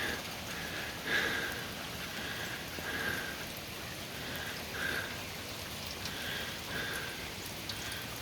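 Heavy rain falling steadily, with short high notes repeating at irregular intervals over it.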